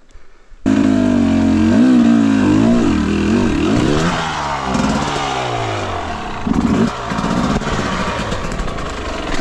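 Two-stroke dirt bike engine, a Husqvarna TE 250i, cutting in abruptly a moment in and then revving up and down again and again as the bike is worked over a log in slick mud.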